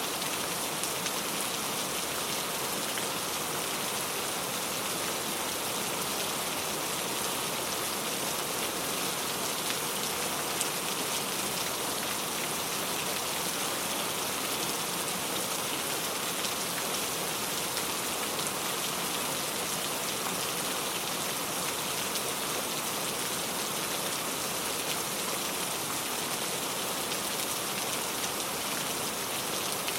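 Steady rain falling on a surface, an even patter of drops with no thunder.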